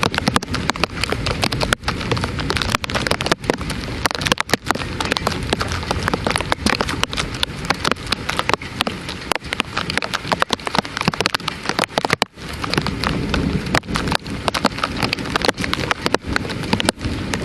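Heavy thunderstorm rain pouring down, with a dense stream of sharp drop hits.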